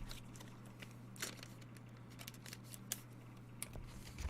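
Faint clicks and light scraping of trading cards being slid and flipped by hand, with a few sharper ticks, over a steady low electrical hum.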